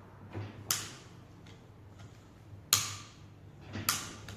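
Click-type torque wrench clicking as it reaches its set torque, three sharp clicks a second or two apart with a few fainter ticks between them. The click signals that the bolt is at its specified torque.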